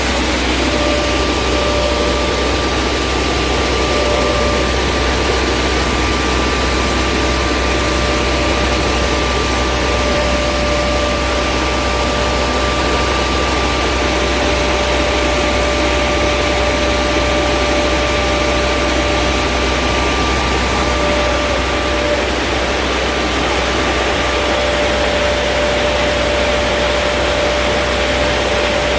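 A 60 t/h grain vacuum (pneumatic grain conveyor) running: a loud, steady rush of air over a low hum, with a steady high whine.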